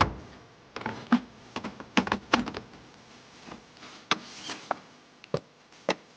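Wooden boards and fittings knocked and clicked together while a camp wash stand is assembled: a string of irregular knocks and taps, some sharp, some soft.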